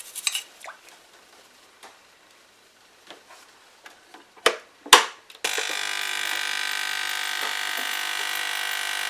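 A few light clicks and knocks of handling, with a sharper knock about five seconds in, then a small electric device switches on and runs with a steady buzz.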